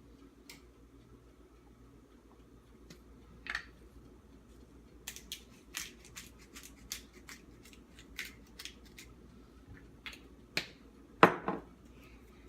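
Irregular small clicks and taps of kitchen items being handled while tomato slices are seasoned, thickest through the middle, with one louder knock about eleven seconds in.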